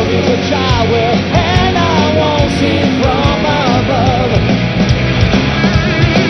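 Live rock band playing loud in an instrumental passage: a lead melody of bending, wavering notes over the full band.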